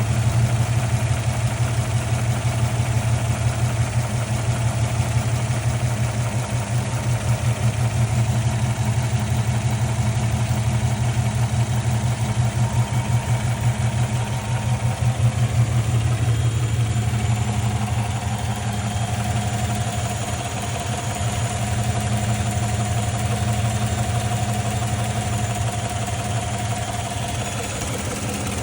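GM L83 5.3-litre V8 running steadily at idle, with a tick that the owner suspects is a lifter.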